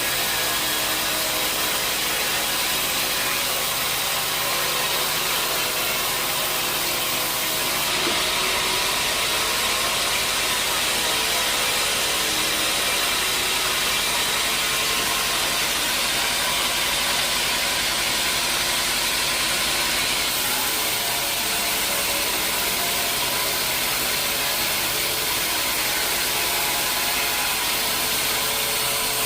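Sawmill machinery running steadily, a dense mechanical hum and hiss. Between about eight and twenty seconds a brighter, higher hiss joins in.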